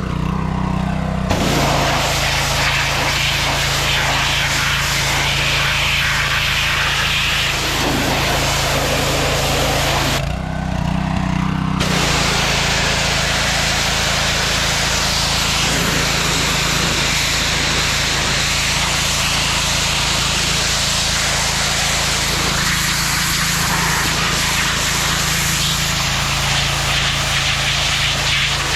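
A motor-driven power tool running steadily: a low hum under a loud, even hiss, with a brief change in the sound about ten seconds in.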